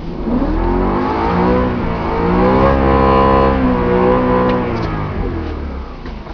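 BMW E90 M3's V8 engine accelerating: the pitch climbs steadily for about two and a half seconds, holds briefly, then drops away as the throttle is eased off.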